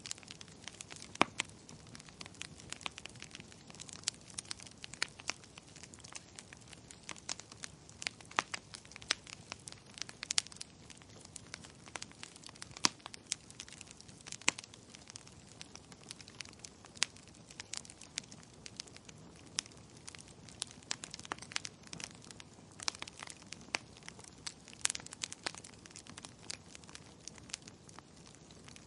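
Firewood burning with steady, irregular crackling: sharp pops and snaps scattered several times a second over a soft hiss of the flames.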